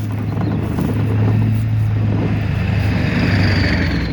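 A steady low motor hum, with a thin high whine sliding slowly downward near the end.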